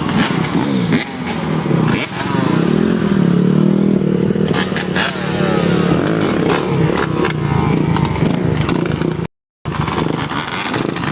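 Motorcycle engines running and revving, the pitch rising and falling repeatedly. The sound cuts out completely for a moment a little over nine seconds in.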